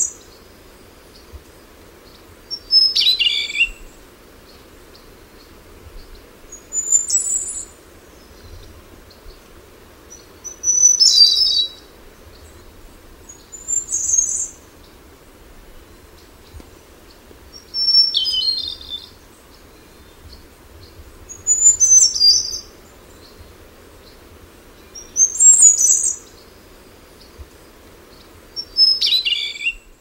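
Black-billed nightingale-thrush singing: short, high, whistled phrases of about a second each, repeated about every three and a half seconds, some sliding downward.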